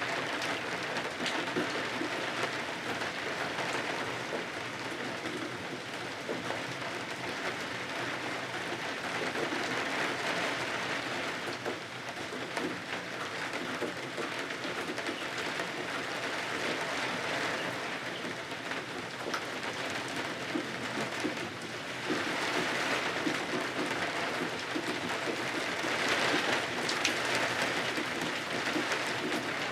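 Steady rain falling against windows, swelling and easing every few seconds, with a few sharp single ticks.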